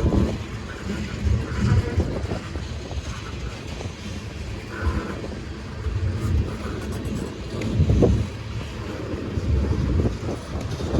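Long freight train's cars rolling slowly past at close range: a steady low rumble with recurring heavier thumps and swells as wheels pass over the rails.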